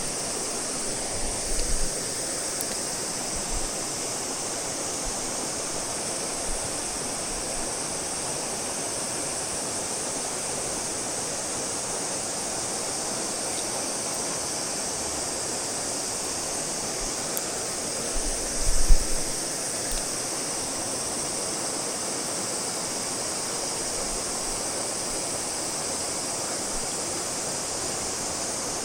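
Steady rushing water of a mountain stream, an even hiss with no let-up. A brief low rumble about two-thirds of the way through.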